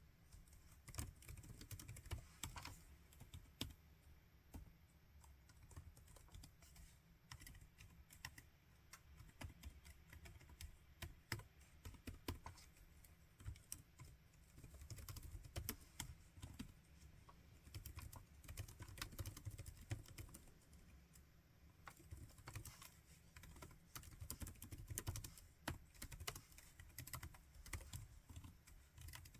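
Laptop keyboard typing: a fast, uneven run of soft key clicks with short pauses between bursts.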